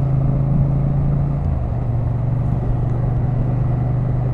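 Motorcycle engine droning steadily at motorway speed under heavy wind and road noise, its note dropping slightly about a second and a half in.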